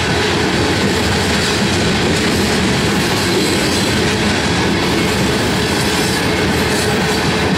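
Freight train's open-top hopper cars rolling past close by: a continuous, even rumble of steel wheels on rail.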